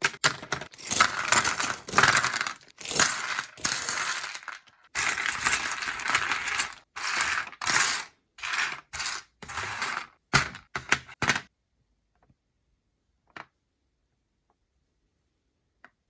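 Plastic bags of LEGO pieces being opened and small plastic bricks rattling and clattering, in a run of noisy bursts for about eleven seconds. Then it goes almost quiet, with a few faint clicks.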